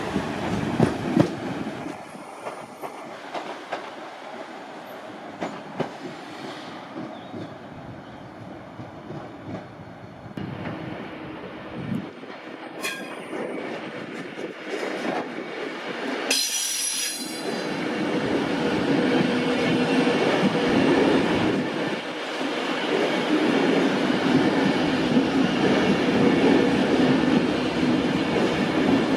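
Train running through a station: wheels clattering over rail joints, easing off, then a brief high squeal about two-thirds of the way in, followed by a train's rumble building louder to the end.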